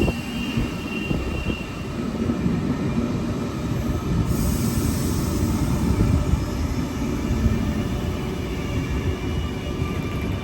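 Sydney Trains suburban electric train moving at a station platform, with a steady rumble. High wheel squeal fades out about two seconds in, and there is a burst of hiss about four seconds in.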